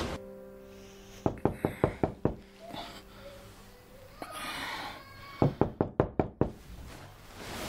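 Knocking on a door: two runs of rapid knocks, each lasting about a second, a few seconds apart.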